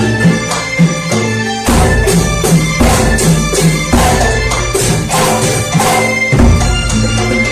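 Kuntulan music: a traditional Banyuwangi ensemble of frame drums and other percussion playing a steady beat, with sustained melodic tones over it.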